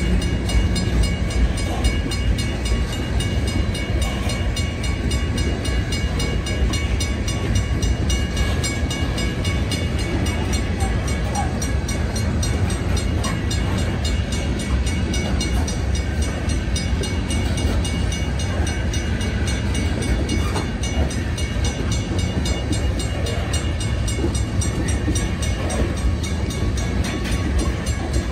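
Loaded coal hopper cars rolling steadily past a grade crossing: a continuous rumble and clatter of steel wheels on rail, with the crossing bell ringing steadily over it.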